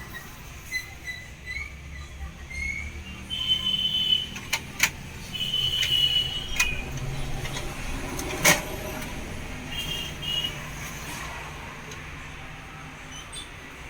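Cage birds chirping and whistling in short high calls over a steady low rumble of traffic. A few sharp clicks come through, the loudest about eight and a half seconds in.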